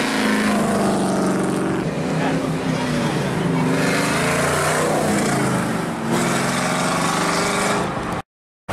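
Classic car engines driving past one after another: a 1932 Ford coupe hot rod, then a 1969 Camaro SS, the engine note rising and falling as each goes by. The sound cuts out for about half a second near the end.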